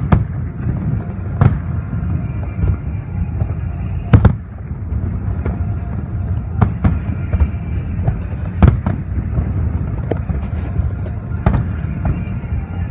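Aerial fireworks shells bursting, sharp booms every second or two with the loudest about four seconds in, over a steady background of music.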